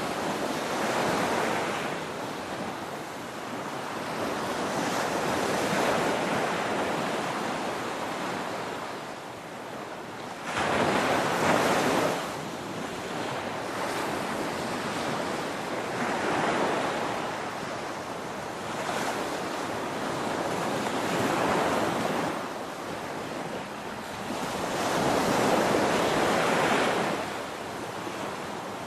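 Ocean waves breaking on a shore: the surf swells and falls back about every five seconds, with the sharpest, loudest break about ten seconds in.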